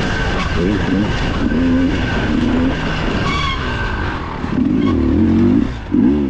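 Dirt bike engine heard from on board, its revs rising and falling over and over as the rider blips and opens the throttle. There is a long high rev about five seconds in and a quick rev up and down near the end.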